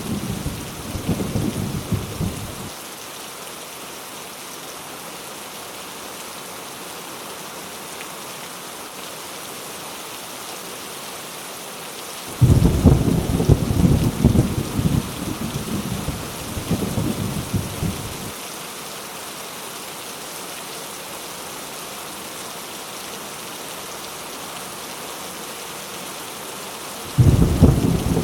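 Heavy rain falling steadily, with thunder: a rumble dying away about three seconds in, a sudden loud crack and rumble about twelve seconds in that rolls on for some six seconds, and another sudden one just before the end.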